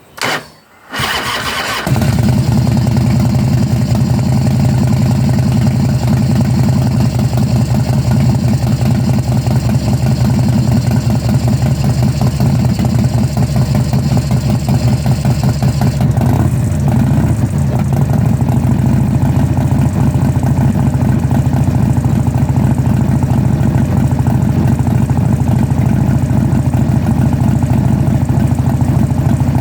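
Old car's petrol engine cranking briefly and catching about two seconds in, then running steadily. The knock sensor has just been moved, which the owner hoped would cure years of hard starting. A higher hiss over the engine drops away about sixteen seconds in.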